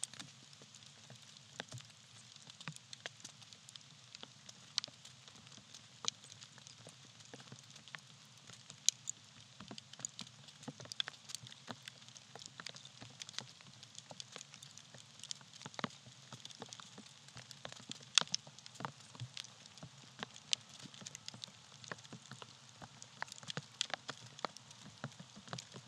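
Small campfire of tree bark burning, with a soft steady hiss and frequent irregular crackles and sharp pops.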